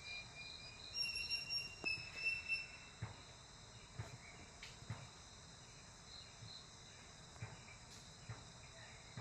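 Steady high-pitched insect drone, with several short whistled bird notes in the first three seconds and a few scattered soft taps.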